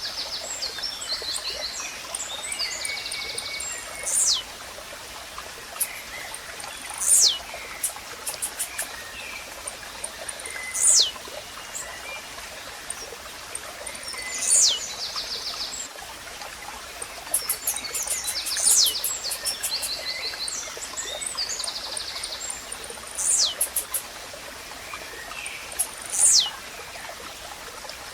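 Blue-black grassquit (tiziu) repeating its short, sharp, falling song note about every three to four seconds, over the steady rush of a stream. Other small birds chirp and trill faintly in between.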